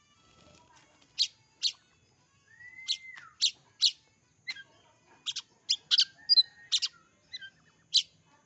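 Oriental magpie-robin singing. It gives a string of about a dozen sharp, short, high notes, with a couple of longer whistled notes mixed in.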